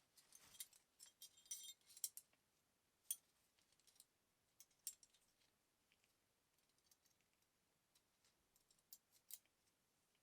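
Faint, scattered metallic clicks and clinks of small metal parts and tools being handled, thickest in the first two seconds, then single sharp ticks about three and five seconds in and a few more near the end.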